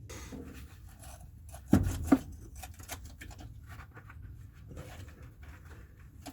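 Small metal clinks and scraping of hand tools working the starter motor's mounting bolts loose, with two louder knocks about two seconds in.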